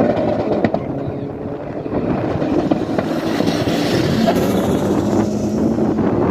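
Engines of two drag-racing cars running hard down the strip after launch, with wind buffeting the microphone.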